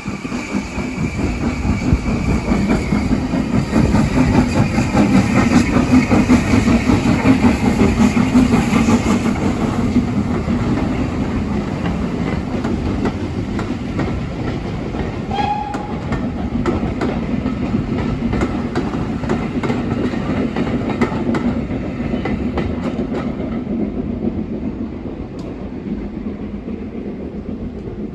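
Steam train passing close by: a heavy rumble of wheels and coaches with rapid clicking over the rail joints, building to its loudest a few seconds in, then easing away. A brief high tone sounds about halfway through.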